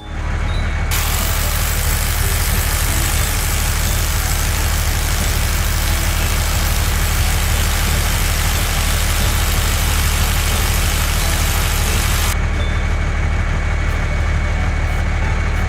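Cartoon sound effect of a heavy vehicle engine running steadily at idle, with a loud hiss laid over it that starts about a second in and cuts off suddenly near the end.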